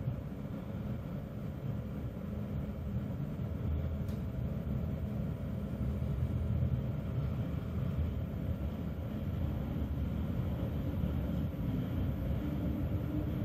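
ICE 1 high-speed train rolling past at low speed as it pulls out, heard from inside a neighbouring train as a steady low rumble that slowly grows louder.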